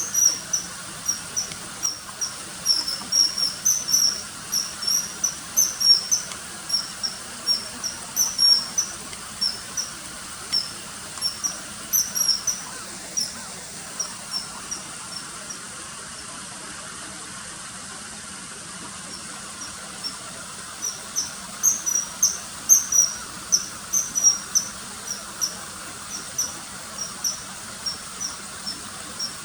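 Common kingfisher calls: short, sharp, high piping notes repeated in quick, irregular series, with a pause of several seconds about halfway through, over a faint steady hiss.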